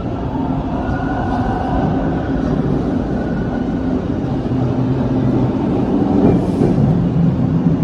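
TTC Line 2 subway train, a Bombardier T1, moving through the station: a steady, loud rumble of wheels on rail with a low motor hum, growing a little louder past the middle.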